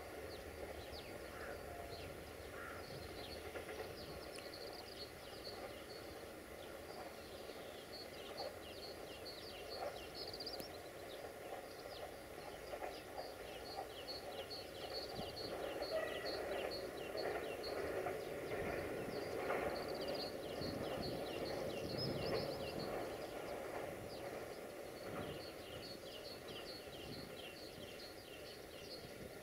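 Small birds singing quick repeated chirping phrases over a distant low rumble of outdoor ambience, which swells slightly around the middle.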